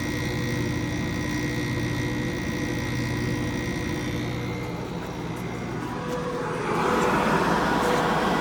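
Enclosure heat pump air conditioner running in cooling mode, a steady mechanical hum with a few steady tones; about seven seconds in, a louder rush of air takes over as the cold air coming in is caught.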